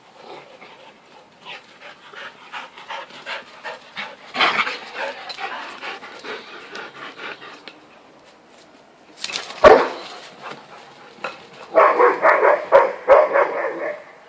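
Sheepdog panting in quick, even breaths, with one loud sharp sound a little over halfway through and a faster, louder run of panting near the end.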